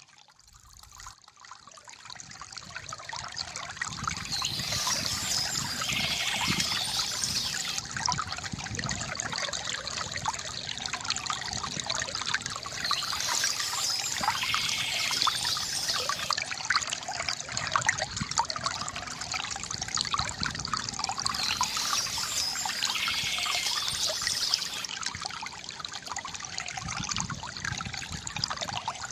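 Water trickling and gurgling from a bamboo fountain, fading in over the first few seconds. Birds chirp high above it three times, about every eight to nine seconds.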